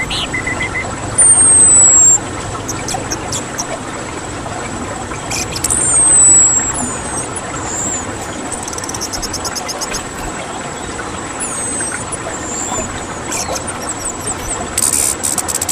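Small birds singing: thin, very high whistles that slide down in pitch, short high calls, and quick rattling trills over a steady hiss.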